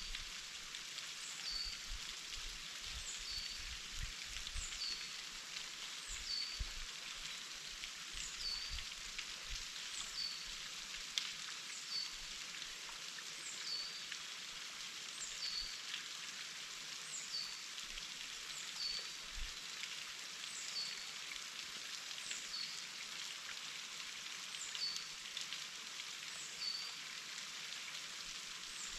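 Waterfall splashing steadily, an even hissing rush of falling water. A thin, high, downward-slurred call repeats about once a second over it.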